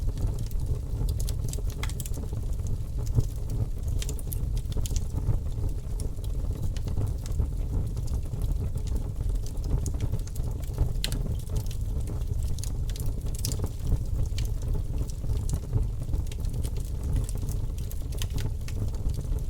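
Wood fire crackling in a fireplace: a steady low rumble with scattered sharp crackles and pops.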